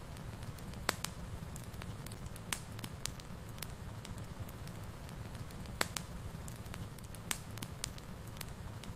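Wood fire crackling in a fireplace: a steady low rumble of flames under irregular sharp pops and snaps, the loudest about a second in and again near six and seven seconds.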